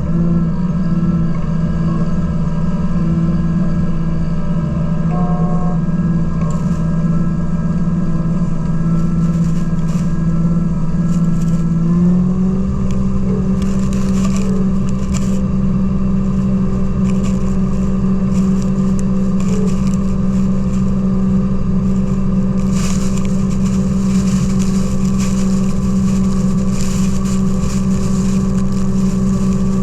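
Kubota B2650 compact tractor's three-cylinder diesel engine running steadily; about twelve seconds in its speed steps up and holds at the higher pitch.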